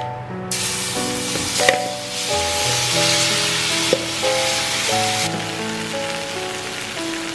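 Chicken pieces hitting hot oil in an enameled cast-iron skillet and frying with a loud sizzle that starts about half a second in and eases off after about five seconds, with a couple of sharp clicks as the pieces go in. Background music plays throughout.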